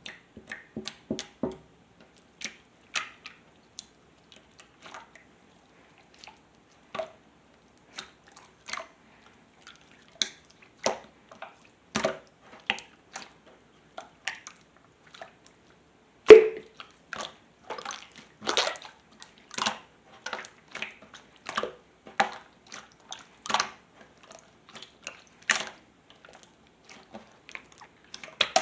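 Hands squishing and pressing a soft 'water pudding' slime, making irregular wet clicks and sticky pops with short pauses between. The loudest pop comes about 16 seconds in.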